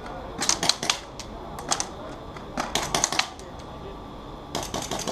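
Airsoft guns firing in several quick bursts of sharp snapping shots, the last burst starting near the end.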